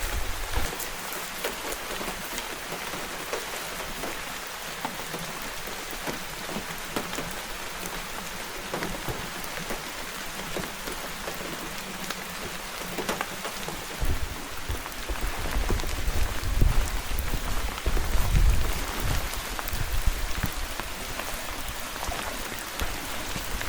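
Steady rain falling, with many small drop ticks on top of an even hiss. About halfway through a low, uneven rumble joins in and stays.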